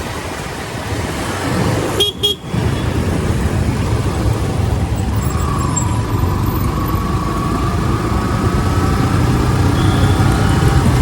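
Wind buffeting a helmet-mounted phone microphone over motorcycle and road traffic noise while riding. A vehicle horn sounds one long steady note from about halfway through, held for several seconds.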